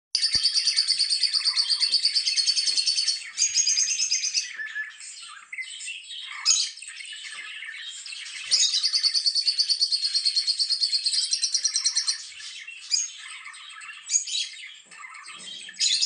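Lovebird chirping: two long runs of fast, shrill chatter, about seven chirps a second for three or four seconds each, one at the start and one about halfway through, with softer, scattered chirps between.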